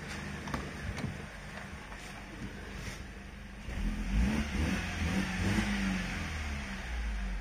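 BMW N42/N46-series four-cylinder petrol engine idling, then revved twice to around 3000 rpm in the second half.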